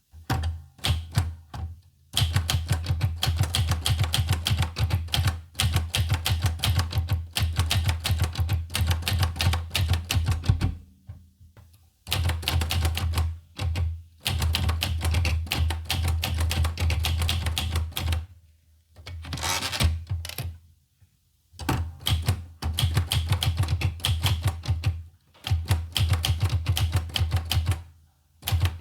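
Olivetti Lettera 25 manual portable typewriter being typed on: fast runs of key strikes, each a sharp clack with a dull thud, broken by brief pauses. About two-thirds of the way through there is one short, harsher rasping sound between the runs.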